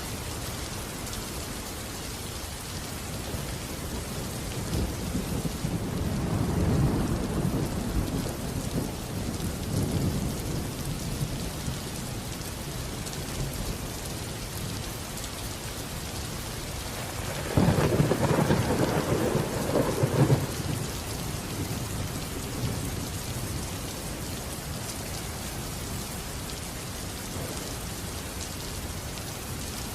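Steady rain with two rolls of thunder: a low rumble that swells about five to eight seconds in, and a louder peal that starts suddenly a little past halfway and dies away after about three seconds.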